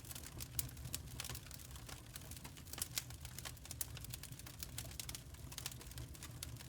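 Wood fire crackling: irregular sharp snaps and pops over a steady low rumble of the burning logs.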